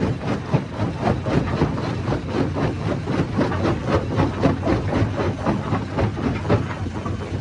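Hammer stone crusher running under load: rock clattering and breaking inside it in rapid, irregular knocks, several a second, over the steady low drone of its drive.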